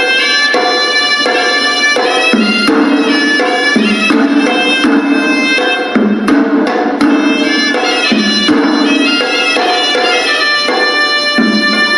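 Hewisi temple music: a horanewa, a shrill double-reed pipe, plays a held melody that steps from note to note over a steady beat of drum strokes.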